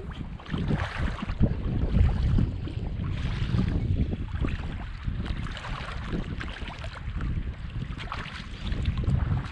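Wind gusting across the microphone in an uneven low rumble, with waves washing on the shore of a rough lake.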